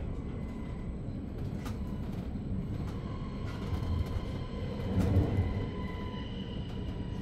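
Running noise heard inside a Re 450 DPZ double-deck S-Bahn train: a steady low rumble of wheels on track with a faint electric whine. There are a few knocks, and the sound grows louder briefly about five seconds in.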